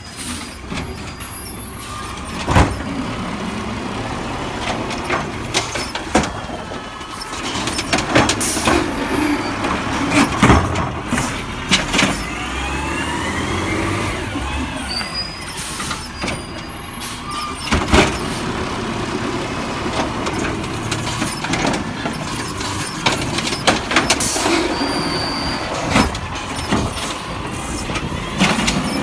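Refuse truck at work: its diesel engine rising and falling in pitch, with repeated sharp bangs and clanks and brief air-brake hisses.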